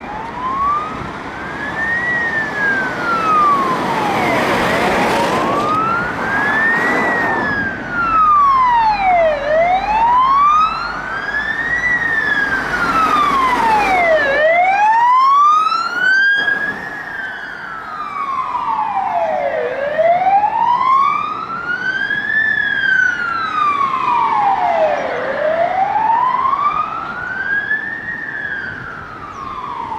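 Emergency vehicle siren on a slow wail, rising and falling about every five seconds. A second, fainter siren sweeps out of step with it for a stretch in the middle, and a surge of traffic noise comes in around five seconds in.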